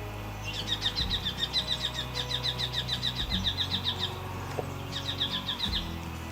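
A bird calling in rapid runs of short, high chirps, about eight a second. One long run lasts about three and a half seconds and a shorter one comes about a second later.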